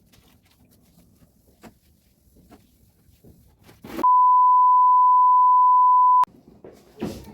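A loud, steady electronic beep at a single pitch near 1 kHz, lasting about two seconds and starting about four seconds in, set in dead silence like a tone dropped in during editing. Before it there are only faint scattered clicks and knocks.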